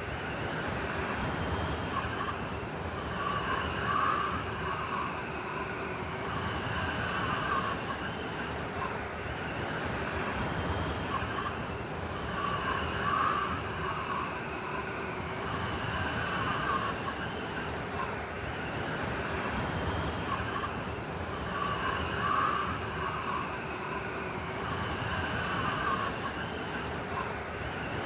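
Blizzard wind blowing steadily, with a higher, whining gust swelling about every nine seconds.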